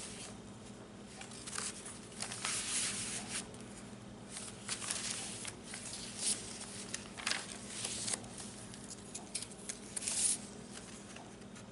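Paper and card rustling and sliding in short bursts as cards are handled and pages of a handmade junk journal are turned.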